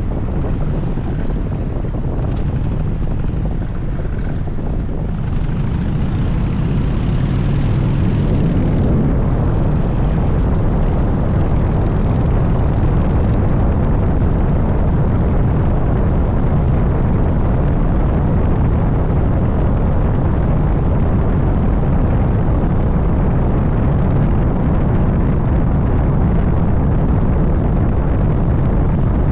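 Harley-Davidson Dyna Super Glide's V-twin engine running on the move. It grows louder over the first eight seconds or so, then holds steady.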